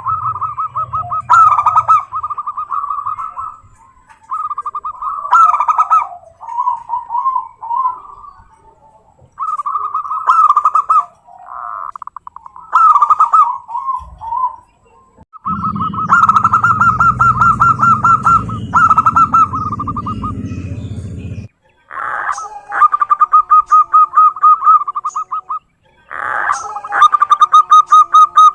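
Zebra doves (perkutut) cooing: repeated rapid, rolling coo phrases, each a second or two long, one after another with short pauses.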